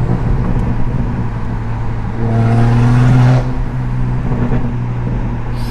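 BMW 135i's straight-piped 3.0-litre twin-turbo N54 straight-six droning steadily under way, heard from inside the cabin. About two seconds in it swells louder under throttle, then drops back abruptly a second later as the throttle is eased off.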